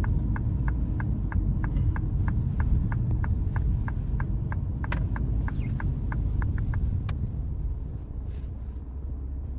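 Car cabin: engine and road rumble easing off as the car slows, with a turn-signal indicator ticking about three times a second until about seven seconds in.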